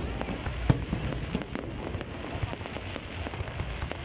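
Aerial firework shells bursting one after another in a dense run of bangs and crackles over a steady low rumble, with the sharpest bang about three-quarters of a second in.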